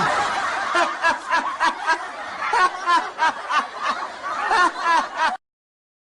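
Laughter sound effect: a fast run of short, high-pitched snickers and giggles, cut off abruptly a little over five seconds in.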